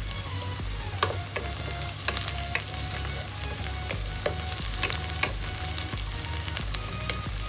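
Chopped onion, garlic and sliced green chilies sizzling in oil in a pot, with a wooden spatula stirring them and knocking and scraping against the pot several times.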